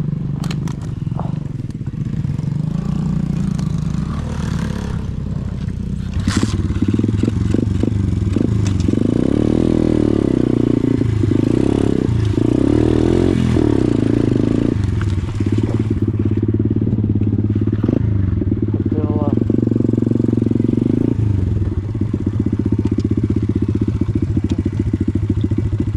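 Small pit bike engine running, louder from about six seconds in, with several bursts of revs through the middle, then running steadily again.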